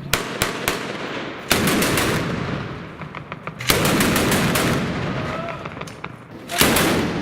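Automatic gunfire: a few single shots, then three short bursts, each followed by a long echoing tail.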